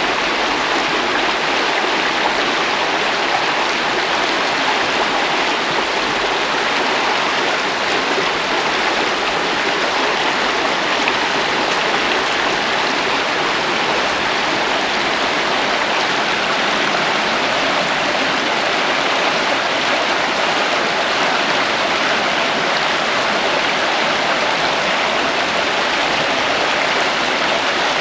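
Steady rush of flowing river water, constant and unbroken.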